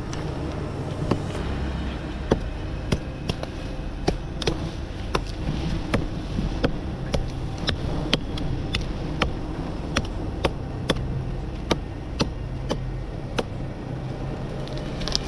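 A blade chopping in a steady series of sharp knocks, about two a second, over a low steady rumble.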